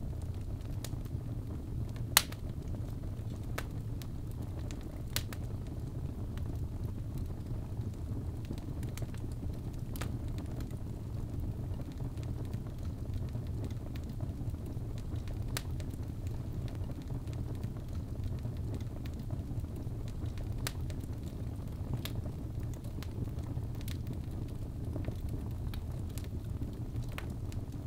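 Birchwood log fire burning in a fireplace: a steady low rumble of flame with scattered sharp crackles and pops, one louder pop about two seconds in.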